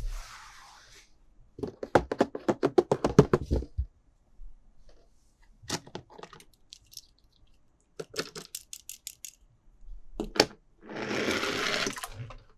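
Toys and plastic packaging being handled: a fast run of plastic clicks, about ten a second for two seconds, then scattered single clicks, another short run of clicks, and a burst of rustling plastic near the end.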